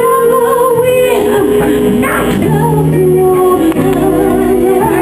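Live R&B band playing, with sung notes held with vibrato over a steady bass line.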